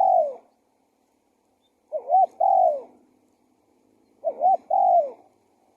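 Spotted dove cooing: a repeated phrase of two short rising notes and a longer falling coo, given about every two and a half seconds.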